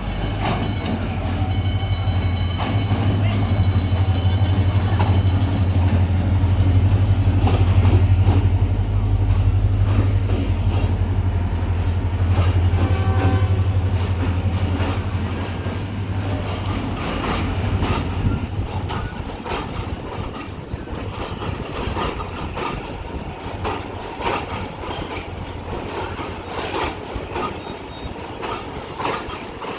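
Passenger train running into a station. The diesel locomotive's low engine drone is loudest in the first half and fades after about 18 seconds, leaving the carriages rolling past with clicking and knocking of wheels over the rail joints.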